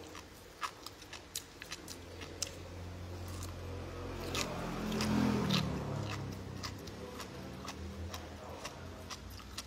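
Close-up crunching and chewing of a crispy yellow snack, with a series of sharp crackles as it breaks between the teeth and a louder stretch of chewing about five seconds in.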